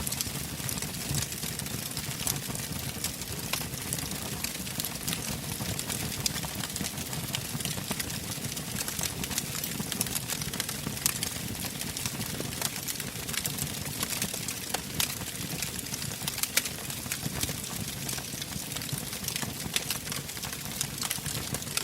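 Wood fire burning in a fireplace: steady crackling with frequent sharp pops and snaps over a low rushing of the flames.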